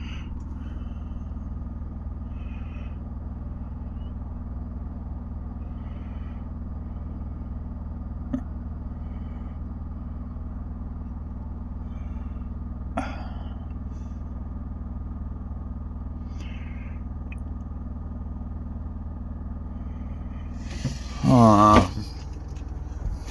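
Electric fan heater running with a steady low hum of several tones. Near the end comes a brief, louder sound that slides down in pitch.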